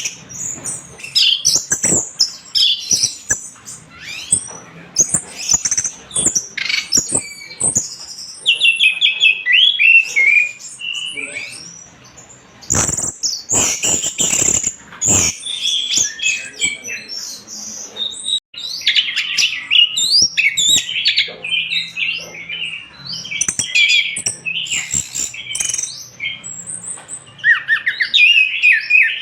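Orange-headed thrush singing energetically, a rapid, varied song of high whistled and chattering phrases in bursts with short pauses, with a few sharp clicks mixed in around the middle.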